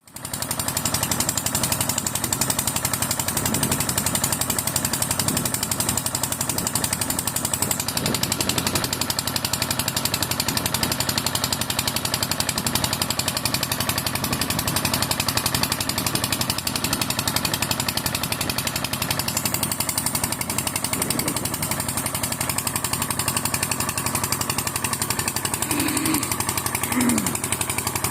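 Small diesel engine of a mini tractor running steadily, driving a water pump, with a rapid, even chugging.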